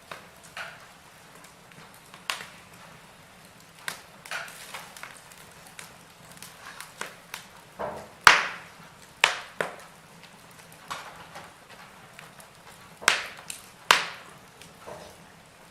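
Logs burning in a fireplace, crackling: irregular sharp pops and snaps over a faint steady hiss, with the loudest pops about eight seconds in and again near the end.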